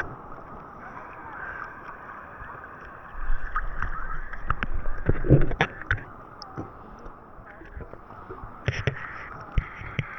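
Water sloshing and splashing around people floating beside a moored boat, with scattered small splashes and a low wind rumble on the microphone from about three seconds in.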